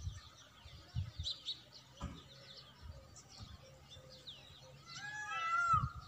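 Small birds chirping in quick, repeated short calls, with a louder, longer call that rises and falls about five seconds in. A few soft low thumps.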